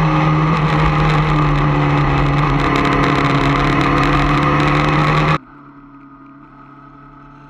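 Onboard sound of a racing motorcycle's engine running hard at high, steady revs on track, its note holding nearly constant under a broad hiss. About five seconds in it cuts abruptly to a much quieter, steady engine drone.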